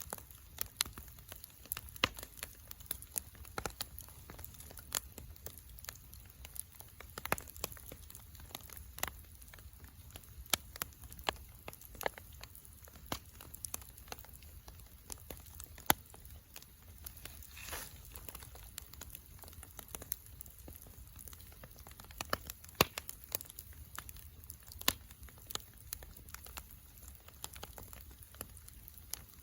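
Wood fire crackling, with sharp irregular pops and snaps over a low steady background.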